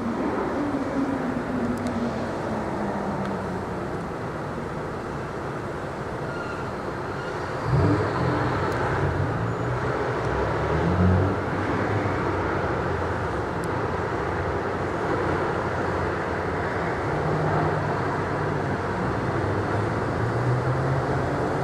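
Steady roar of engine and vehicle noise. A low pitch falls slowly over the first few seconds, and a louder, low engine rumble starts suddenly about eight seconds in, rising again briefly a few seconds later.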